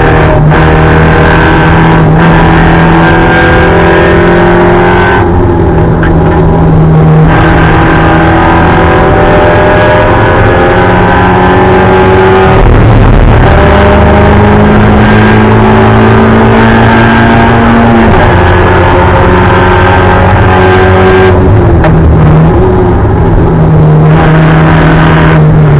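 Spec Miata race car's four-cylinder engine running loud at high revs, the pitch climbing slowly under acceleration and stepping down at gear changes. Twice, about five seconds in and again near the end, the engine note thins briefly as the driver lifts off the throttle.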